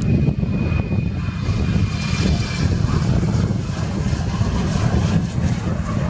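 Airliner jet engines at takeoff thrust, a loud steady deep rumble, with a thin high tone that fades out about two and a half seconds in.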